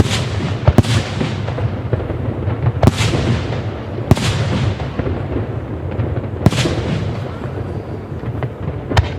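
Fireworks shells bursting with sharp bangs every one to two seconds, each trailing off in a fading echo, over a steady low rumble.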